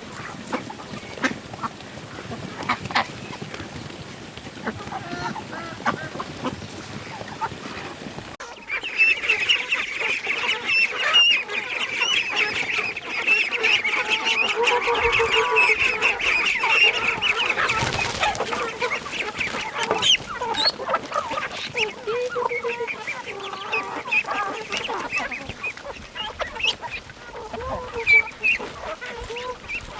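A flock of farmyard poultry calling, many birds at once. About eight seconds in, the calling gets suddenly louder and busier and stays that way.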